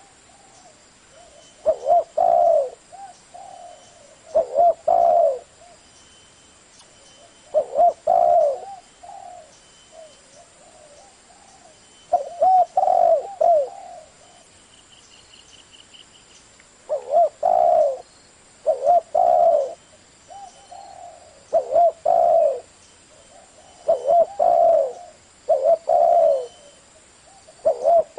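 Spotted dove (cu gáy) cooing in the deep 'giọng thổ' voice: short phrases of a few low notes, repeated about every two to three seconds, about ten times.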